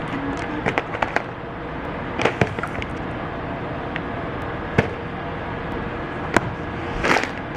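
Grocery packages being handled: scattered light knocks, clicks and packaging rustles, with a longer rustle near the end, over a steady background hum.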